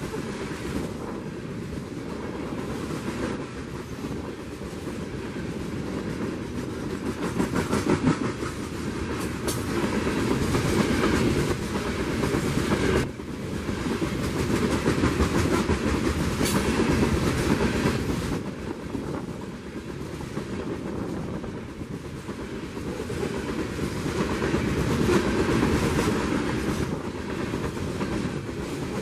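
Freight train of coal gondola cars rolling past close by: steel wheels running on the rails with a clickety-clack over the rail joints. The level swells and eases in waves, with a sudden dip about halfway through.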